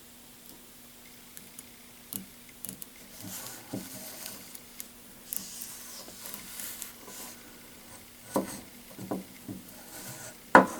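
Small handling sounds at a workbench: scattered light taps, rustles and brief scrapes, most likely masking tape being peeled off a freshly painted scale-model truck, with a sharper click near the end. A faint steady hum runs underneath.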